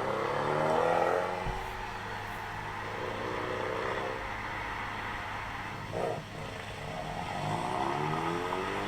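Ford Mustang's turbocharged 2.3-litre four-cylinder EcoBoost engine revved through an MBRP Race Series exhaust, its pitch climbing and falling, buzzy on the top end. It revs once near the start and again near the end, with a short knock in between.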